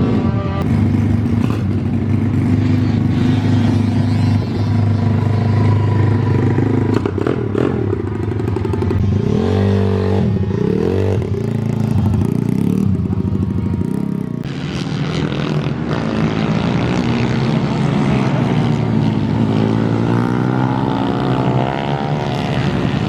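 Pit bike engines running hard, their pitch rising and falling as they rev.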